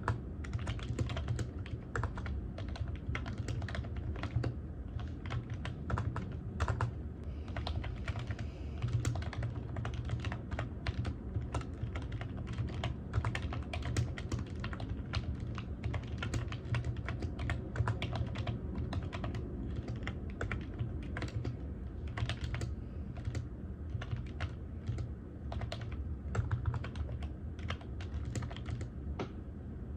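Fingers typing on a computer keyboard: a continuous, irregular run of key clicks broken by short pauses, as in steady writing.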